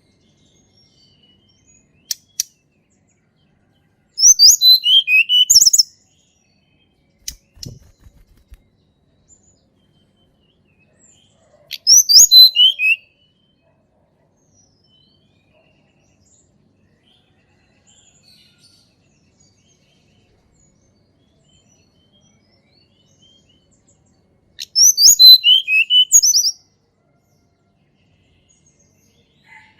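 A tledekan gunung songbird singing three short phrases, each a quick run of clear notes that steps down in pitch, with long pauses between phrases. A couple of faint clicks come before the first phrase.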